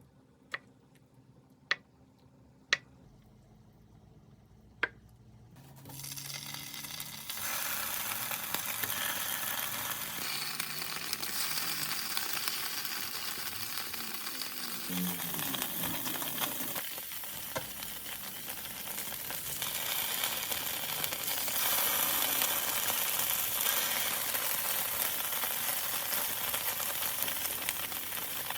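A few sharp clicks in near quiet, then food starts sizzling in a hot frying pan about six seconds in. The sizzle grows into a steady, loud frying hiss and gets louder again about two-thirds of the way through.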